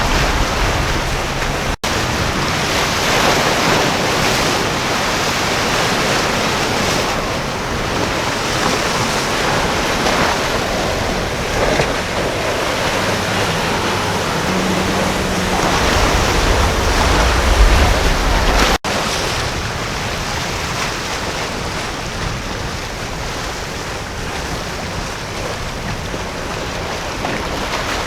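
Waves and surf rushing, with wind buffeting the microphone; a low rumble swells about two-thirds of the way through. The sound breaks off for an instant twice.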